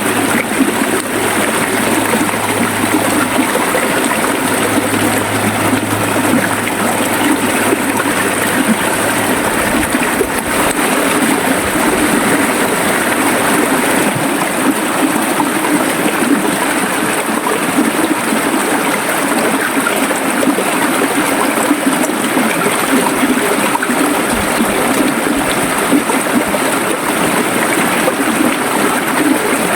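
River water running and gurgling, a steady, unbroken rush.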